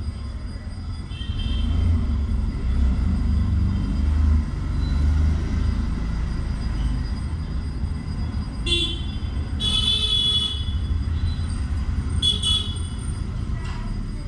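Short, high-pitched bird chirps, one about a second in and a cluster of several near the end, over a steady low rumble.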